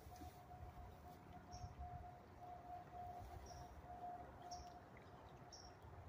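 Faint, short, high bird chirps, four or so, a second or two apart, over a low steady rumble and a faint steady hum.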